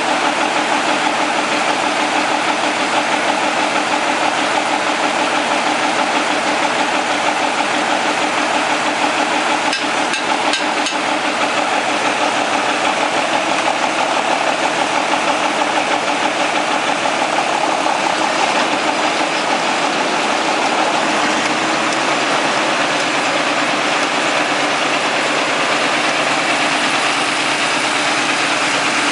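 Vintage Caterpillar D13000 six-cylinder diesel engine running steadily.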